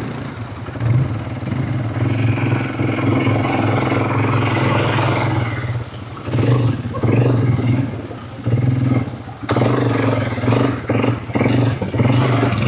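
Quad bike engine running under way, its note swelling and easing several times as the throttle is opened and let off, with some clatter from the bike over rough ground.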